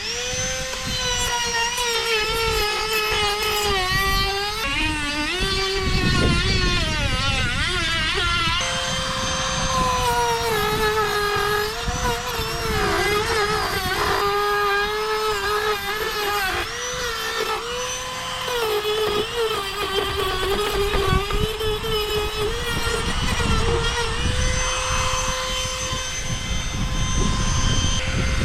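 An electric power tool's motor running with a steady whine that dips and wavers in pitch again and again as it takes load.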